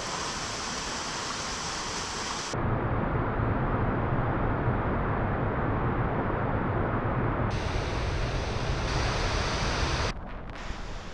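Steady rushing noise of rain and running water in rainforest. About two and a half seconds in it turns suddenly deeper and louder, and it drops back again near the end.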